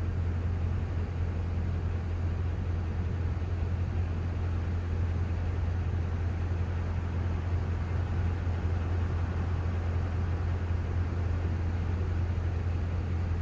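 Steady low drone of a car heard from inside the cabin while creeping through a drive-through display.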